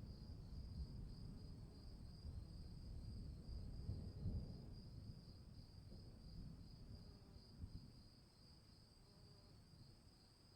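Faint insect chorus trilling steadily in a high, pulsing band, over a low rumbling noise that dies down about eight seconds in.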